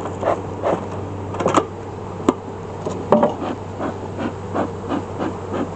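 Bee smoker bellows being pumped, puffing smoke in a quick steady rhythm of about three puffs a second, with a few sharp clicks in the first half.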